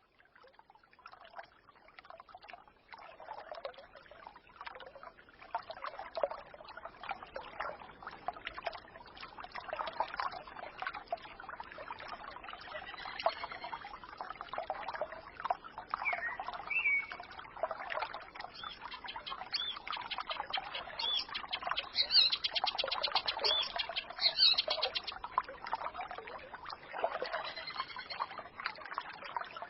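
A small forest stream gurgling and trickling, fading in over the first few seconds, with songbirds chirping over it. Near the end a bird gives a fast, high trill.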